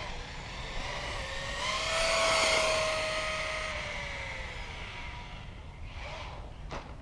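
Axial Yeti Score RC trophy truck running: its electric motor and gears whine, rising slightly in pitch, with tyre hiss that swells to its loudest about two seconds in and then fades as the truck moves away.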